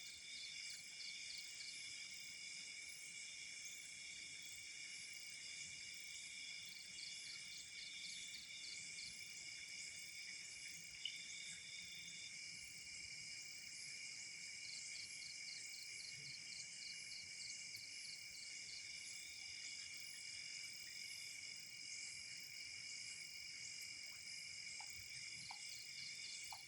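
Night insects, crickets, trilling steadily at several high pitches at once, with one caller chirping in a pulsed rhythm of about five beats a second that stops and starts. A single sharp click about eleven seconds in.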